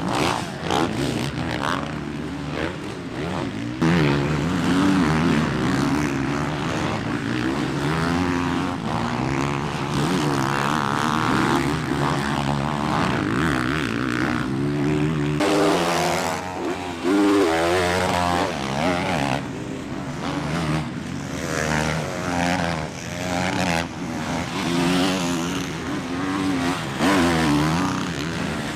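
Motocross bike engines racing on track, several at once, their pitch rising and falling over and over as riders accelerate and shift.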